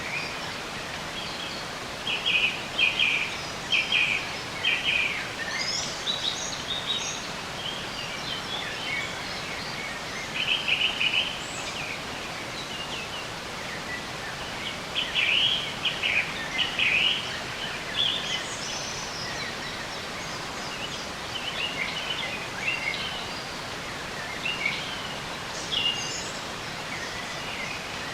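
Songbirds chirping in short clusters of quick repeated notes, several times, over a steady background hiss of moving water or rain.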